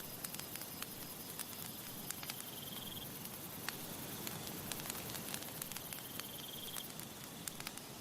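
Wood campfire crackling, with irregular sharp pops over a steady soft hiss. Two short high trills come through, about two and a half seconds in and again near the end.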